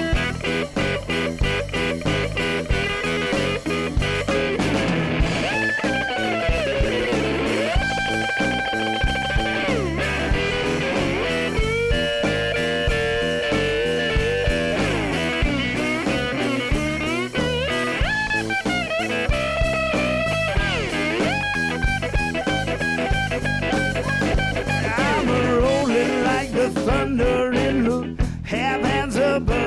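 Instrumental blues break: guitar over a steady beat, with a lead line of long held notes that bend up and down in pitch.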